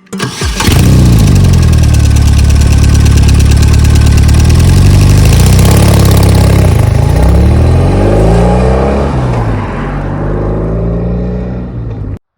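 BMW R18's 1.8-litre air/oil-cooled boxer twin running through a Walzwerk aftermarket exhaust, loud and deep. It holds a steady low rumble, then is revved up and down several times past the middle before settling back, and cuts off abruptly near the end.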